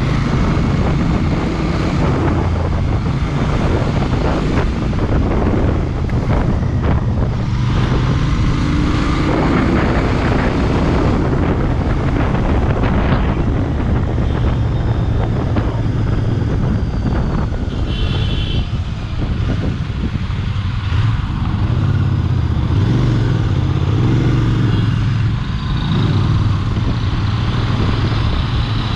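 Royal Enfield Bear 650's parallel-twin engine running while the bike is ridden, its pitch rising and falling as the revs change. Wind noise buffets the helmet or bike-mounted microphone throughout.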